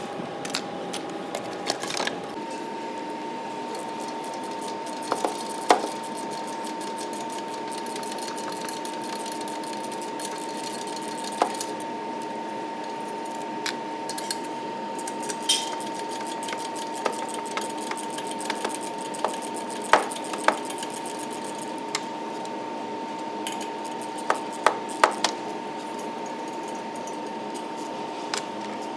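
Scattered metallic clinks and clanks of hand tools and engine parts being handled, some sharp and loud, over a steady high hum that steps up slightly in pitch about two seconds in.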